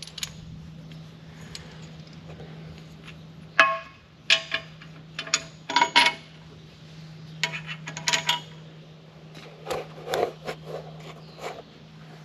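Loose metal tools and hardware being handled, a run of sharp ringing clinks and clatters, loudest about four and six seconds in, over a steady low hum.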